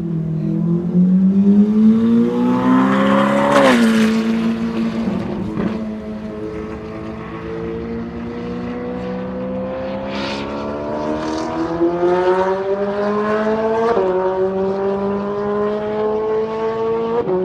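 Ferrari 458's 4.5-litre V8 accelerating through the gears on a warm-up lap. The engine note climbs steadily in each gear and drops sharply at upshifts about four, fourteen and seventeen seconds in.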